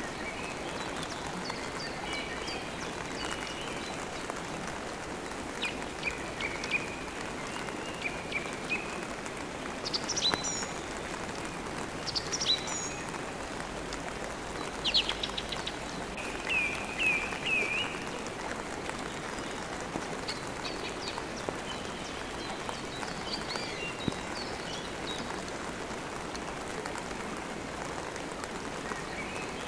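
Steady rain falling, with birds chirping over it in short calls, busiest and loudest in the middle.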